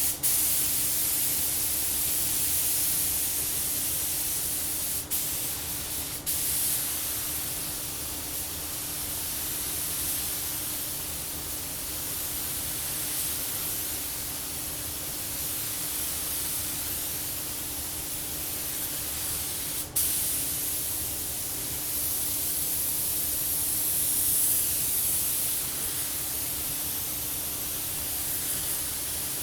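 Air spray gun hissing steadily as it lays a light mist coat of paint onto a car body panel, briefly cut off a few times where the trigger is let go. A faint steady hum runs underneath.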